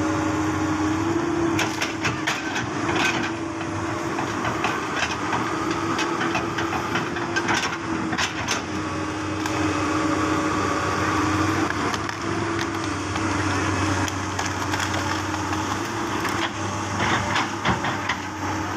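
Mango tree's trunk and branches cracking and splintering as heavy equipment pushes it over, in several clusters of sharp snaps. Under them a heavy machine's diesel engine runs steadily under load.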